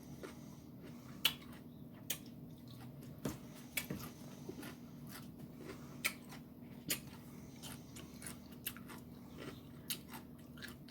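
A person chewing a mouthful of food close to the microphone: soft, irregular mouth clicks and crunches, one or two a second.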